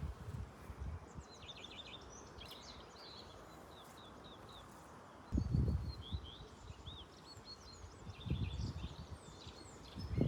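Small songbirds chirping and twittering in short quick phrases. About five and a half seconds in, and again near eight seconds, there is a dull low rumble, like wind or handling on the microphone.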